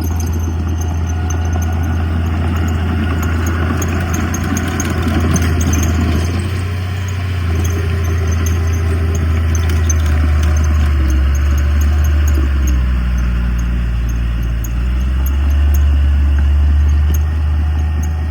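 Diesel engine of heavy earthmoving machinery running steadily with a deep, loud drone, swelling a little near the end.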